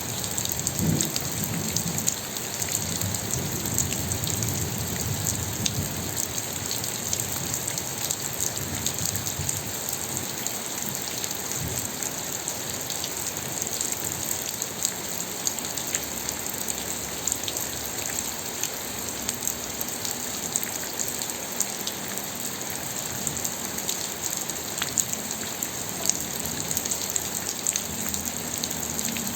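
Steady rainfall: an even hiss of rain with many small drops pattering on a surface. A low rumble runs under it for the first few seconds and briefly again about halfway through.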